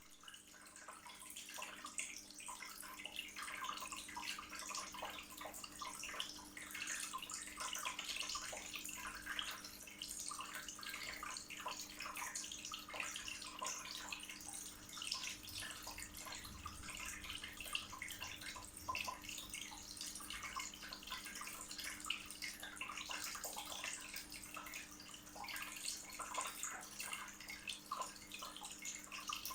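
Water of a floor-standing bowl fountain-waterfall falling and trickling: a steady splashing with many small drips, over a faint steady low hum.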